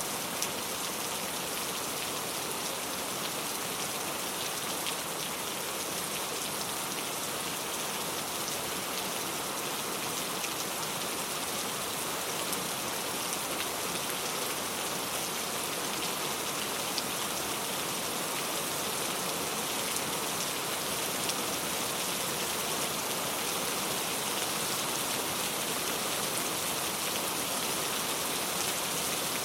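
Steady rain falling, an even patter of many small drops.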